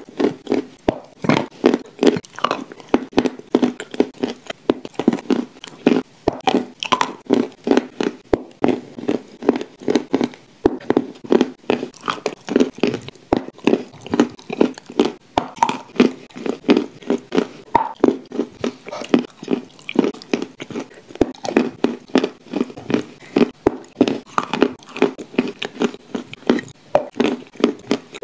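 Close-up chewing and crunching of clay-paste cookie pieces, a moist, gritty crunch at a steady pace of about two to three chews a second.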